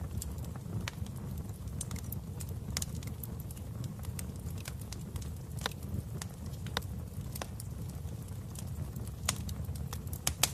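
Wood fire crackling in a fireplace: a steady low rumble of flames with irregular sharp pops and snaps, a few louder ones in the second half.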